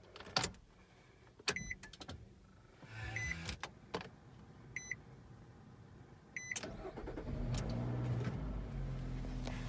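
2013 Nissan Rogue's 2.5-litre four-cylinder engine starting about seven seconds in and settling into a steady idle. Before it come a few clicks from the start knob and short electronic beeps from the car, about one every second and a half.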